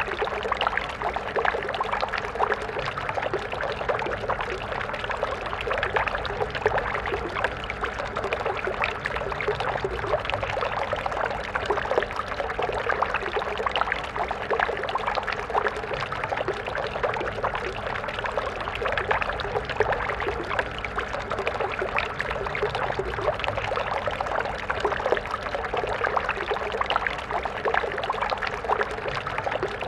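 A stream of water flowing and splashing steadily, a continuous babbling rush dense with small splashes.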